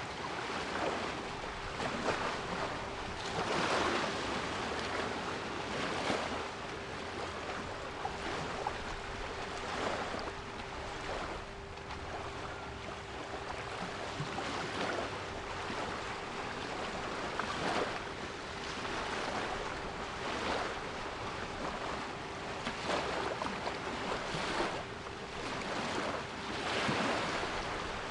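Sea waves breaking and washing in, swelling every two to three seconds, over a steady 396 Hz pure tone held underneath.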